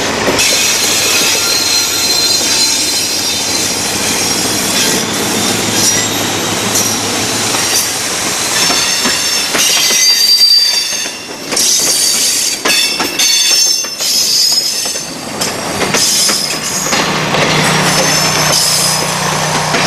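A mixed train rolling past close by on a curve, its wheels squealing in high, wavering tones that come and go, over a steady rumble and clatter of wheels on rail. A low diesel engine hum from the just-passed Alco RS-18u locomotive fades over the first half.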